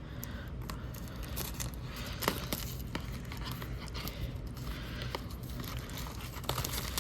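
A retail box of hockey cards being opened by hand: packaging crinkling and tearing, with scattered small clicks.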